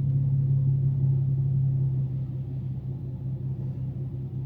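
Nissan 370Z idling in park, heard from inside the cabin as a steady low rumble; the level drops a little about two seconds in.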